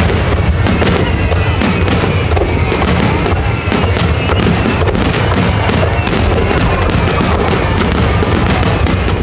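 Fireworks display in a dense barrage: many bursts and crackles in quick succession over a steady low rumble, with no let-up.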